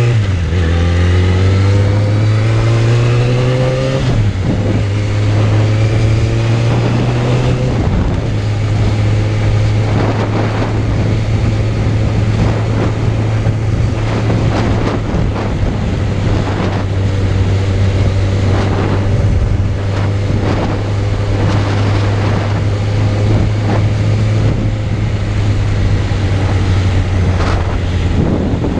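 Suzuki Bandit 600's inline-four engine pulling under way, rising in pitch and dropping back twice, about four and eight seconds in, then holding a steady pitch while cruising. Wind noise on the microphone throughout.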